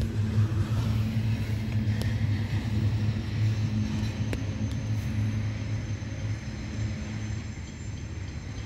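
Freight train wagons rolling past with a steady low rumble and a few sharp clicks, the rumble fading over the last few seconds as the end of the train goes by.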